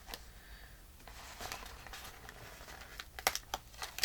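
Paper pieces being handled on a craft table: soft rustling, then a few light clicks and taps in the last second.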